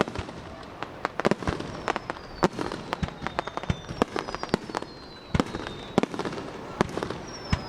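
Aerial fireworks going off in a rapid, irregular string of bangs and cracks, with thin whistles sliding slowly down in pitch.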